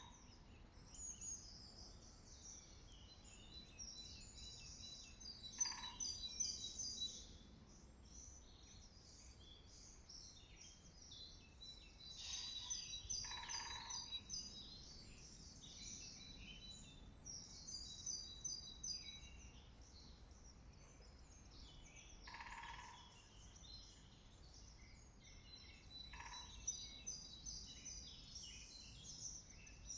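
Faint woodland bird chorus: several songbirds singing high, repeated phrases that overlap. A lower, short call sounds about five times, every few seconds to ten seconds.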